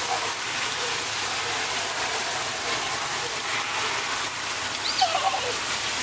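Heavy rain pouring down, a steady hiss of water. About five seconds in, a brief high voice rises and falls in pitch.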